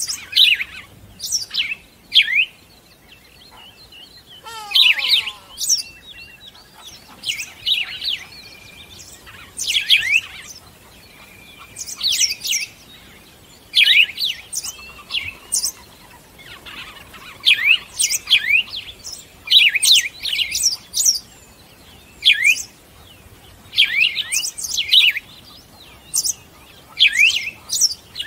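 Birds chirping: clusters of short, sharp chirps repeating every second or two, with an occasional brief steady whistle.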